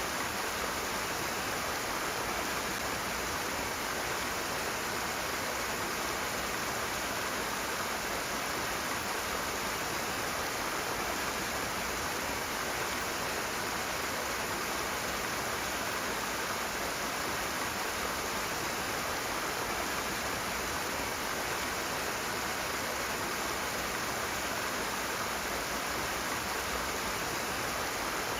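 Rushing water, a steady even roar of a fast stream.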